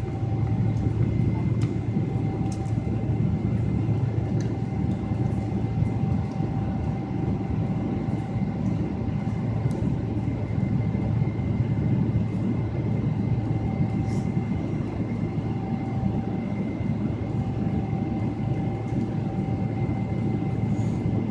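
Steady cabin rumble of a Boeing 777-300ER's GE90 turbofan engines, with two steady tones over it and a few faint rattles; the engine sound holds level, with no spool-up.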